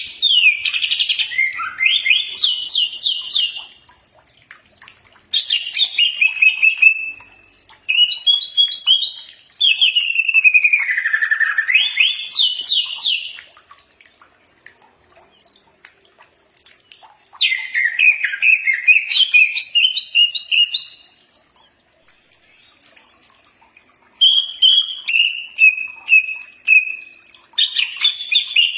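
Cucak ijo (green leafbird) singing in about six loud phrases of fast repeated notes and sliding whistles, with short pauses between phrases.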